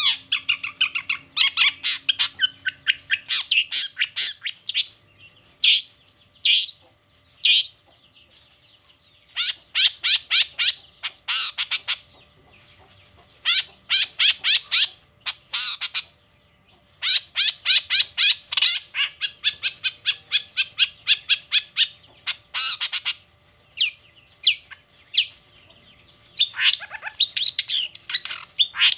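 Long-tailed shrike (cendet) singing: loud phrases of rapid, harsh sweeping notes a few seconds long, broken by short pauses.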